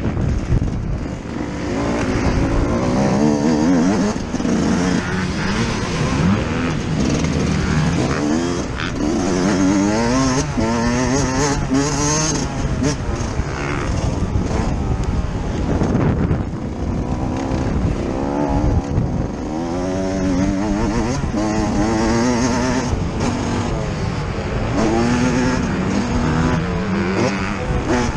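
Yamaha YZ125's single-cylinder two-stroke engine heard on board, revving up and dropping back over and over as the bike accelerates, shifts and rolls off around a motocross track.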